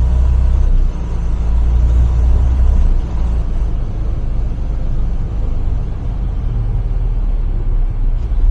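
Tractor-trailer driving on a freeway, heard from inside the cab: a steady low rumble of engine and road noise.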